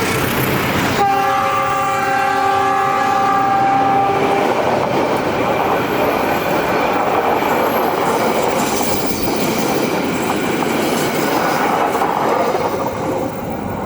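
A train passing close by, its wheels clattering on the rails. About a second in, the locomotive horn sounds one steady chord of several notes for about three and a half seconds.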